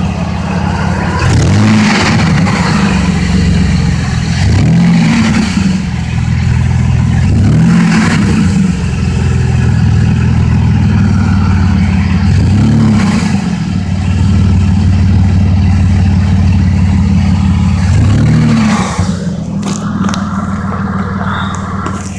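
Pickup truck engine revved repeatedly on the throttle, with about five quick rises and falls in engine speed, running high in between. It drops back toward idle about nineteen seconds in.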